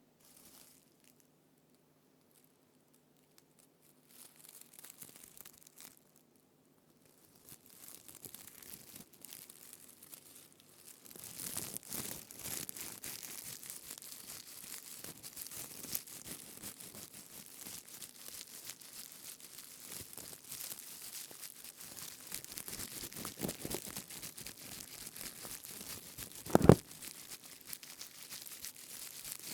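A leaf crown rubbed and squeezed close to the microphone: dry crinkling and crackling rustle. It starts with a few soft touches, turns dense and continuous about a third of the way in, and has one sharp loud knock near the end.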